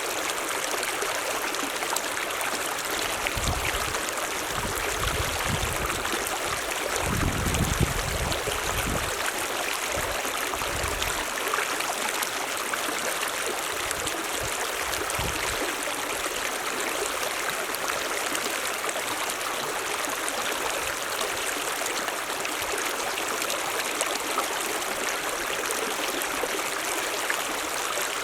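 Mountain stream running water, a steady rushing flow, with a few low rumbles from about three to eleven seconds in.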